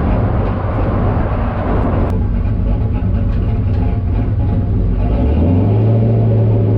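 Turbocharged LS V8 of a street-legal stock car running under way with a low, steady drone. About two seconds in, the rushing noise above it drops off, and about five seconds in the engine note climbs as it picks up revs.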